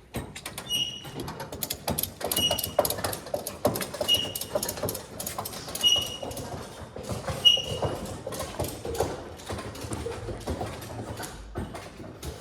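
Ratchet tie-down strap being cranked tight: a run of rapid clicks from the ratchet, with a short ringing metallic ping at each handle stroke, about every second and a half, five times in the first eight seconds. The clicking carries on without the pings toward the end.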